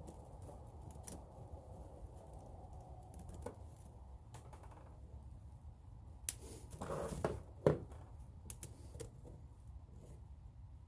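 Scattered light clicks and taps of tools and small parts being handled, over a low steady hum. About seven seconds in comes a short scraping rustle, then one sharp knock, the loudest sound.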